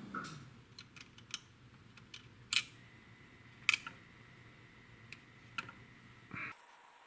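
Small, sharp clicks of plastic model-kit parts and hobby tools being handled, with two louder snaps about two and a half and three and a half seconds in. A faint low hum sits underneath and cuts off suddenly near the end.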